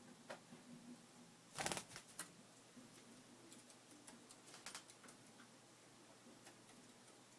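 Pet lovebirds moving about: faint scattered clicks and scratches, with one louder short rustle about a second and a half in and a smaller cluster of clicks near the middle.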